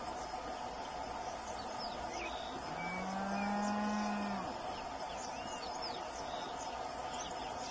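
Steady chorus of insects with many short, high chirps scattered through it. About three seconds in, one long low call, a lowing like a cow's moo, lasts nearly two seconds and is the loudest sound.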